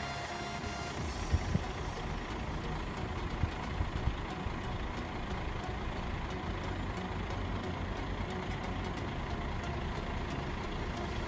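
Steady low rumble of road vehicles idling while held at the closed crossing, with a few soft knocks in the first four seconds.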